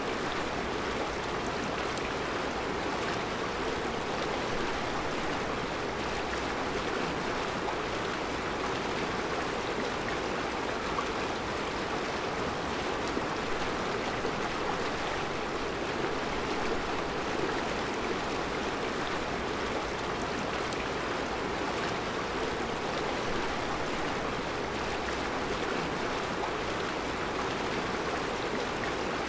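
Mountain river flowing over round rocks in a rocky bed, a steady, even rush of water.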